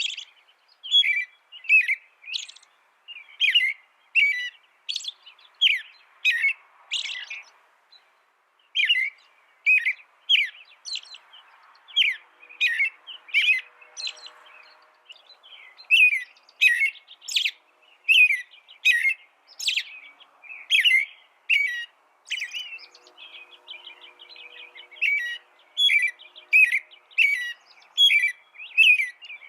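A songbird singing a long run of short, sharp chirps, about one to two a second, with a brief pause about eight seconds in.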